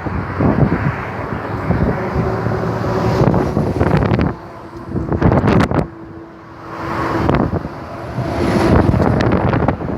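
Wind buffeting the microphone in gusts, easing off briefly twice midway, with a faint steady hum underneath.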